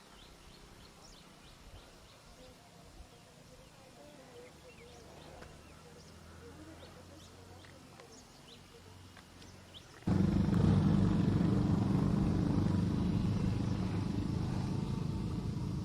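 Faint high chirps over quiet forest, then about ten seconds in a vehicle engine starts abruptly, loud and steady, and runs to the end.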